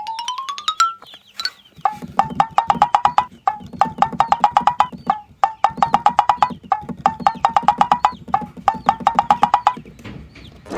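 Cartoon-style sound effects: a short rising glide in pitch, then rapid wood-block-like ticking in short, slightly rising phrases that repeat for about eight seconds.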